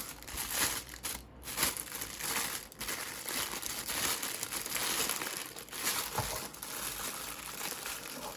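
Packaging being crinkled and rustled by hand while a loudspeaker is unwrapped, a continuous irregular crackling.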